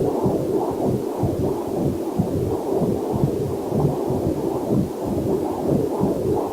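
Heartbeat picked up by a fetal Doppler monitor: a fast, steady rhythm of whooshing pulses, with a faint waterfall hiss mixed in beneath.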